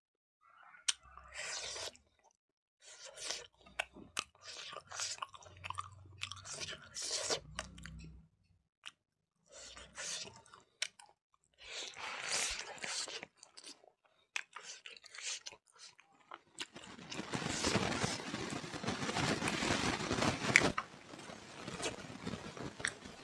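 Close-miked mouth sounds of a person eating smoked pork and rice: chewing with many short, crisp crunches, building to a longer, louder run of chewing in the last third.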